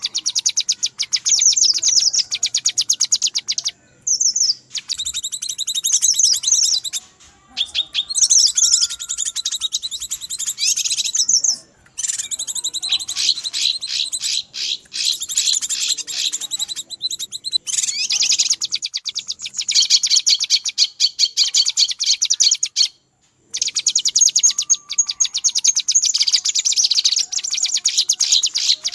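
Cucak kinoi bird-lure recording: rapid, dense, high-pitched chattering calls in long bursts separated by brief pauses. This is the agitated 'ribut' call used to lure wild kinoi.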